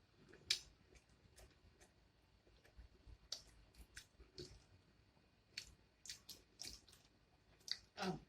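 Faint chewing and wet mouth smacks from someone eating chicken and fries, a scatter of short, irregular clicks and squishes.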